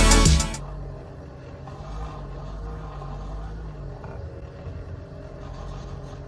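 Music stops about half a second in, leaving a coffee maker with a built-in milk frother running with a steady low hum.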